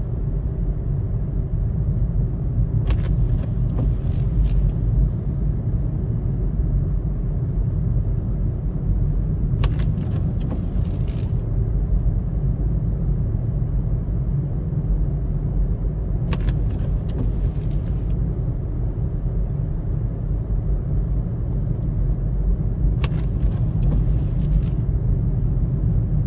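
Steady low road and engine rumble inside a moving car's cabin. A short higher hiss or swish breaks through every six or seven seconds.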